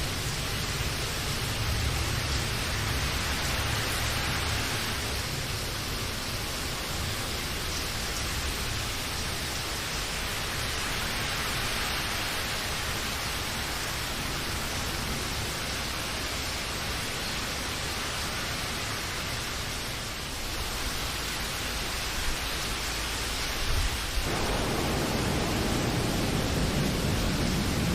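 Steady rain hiss with no distinct drops, with a low rumble under it in the first few seconds. About three-quarters of the way through the sound abruptly becomes fuller and deeper and a little louder.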